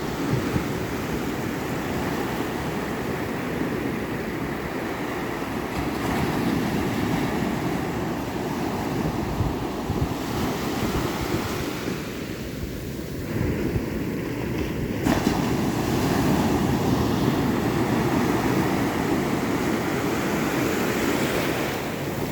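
Ocean surf: waves washing and breaking in a continuous rush that swells and eases, growing louder about six seconds in and jumping louder suddenly about fifteen seconds in.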